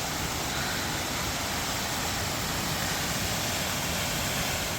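Waterfall rushing, a steady, even noise.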